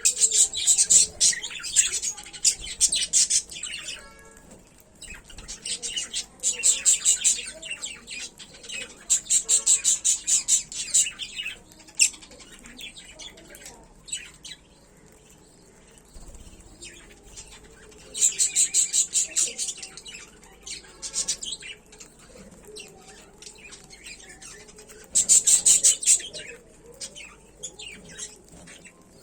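A small colony of lovebirds chattering: bouts of rapid, high-pitched chirping a second or two long that come and go every few seconds, with quieter stretches between.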